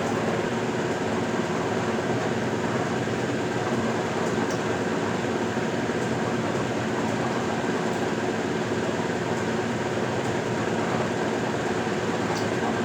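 1977 Westinghouse Lavínia washing machine running: a steady mechanical hum with several fixed tones, and a few faint clicks.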